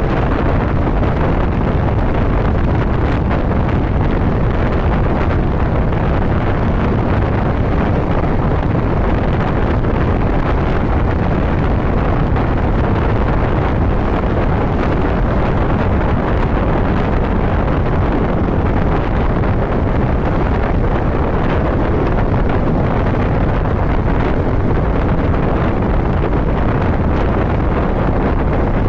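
Steady wind rush on the microphone of a motorcycle riding at road speed, with the bike's running noise underneath, unchanging throughout.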